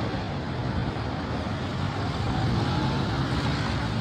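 Steady low rumble of motor vehicle engines on the road.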